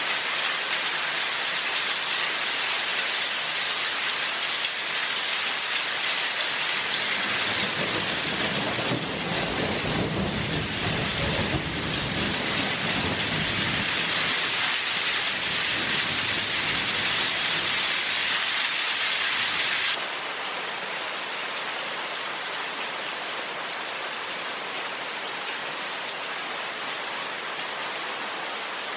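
Steady heavy rain falling, a dense even hiss, with a low rumble of thunder rolling through in the middle. About two-thirds of the way through the rain suddenly becomes quieter.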